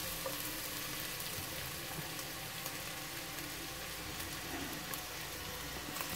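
Chopped pork and hot dogs sizzling steadily as they fry in a stainless steel pot.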